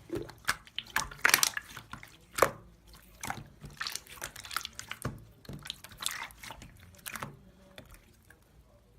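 Irregular wet, squishy clicks and crackles, dense at first and dying away about seven seconds in.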